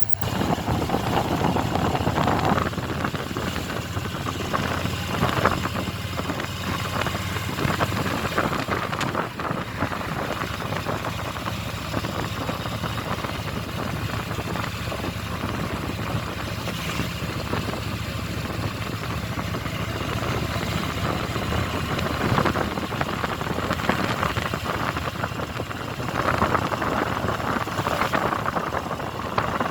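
Motorcycle engine running while riding along, under a steady rushing noise.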